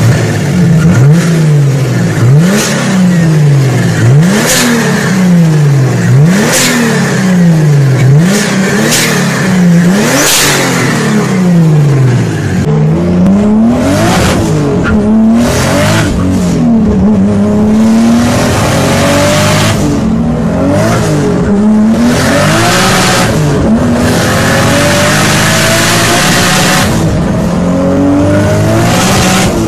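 Turbocharged Toyota 2JZ straight-six revved repeatedly in quick blips, its pitch rising and falling about every second and a half. From about halfway through it pulls hard under acceleration, with long rising climbs in pitch that drop back at each gear shift.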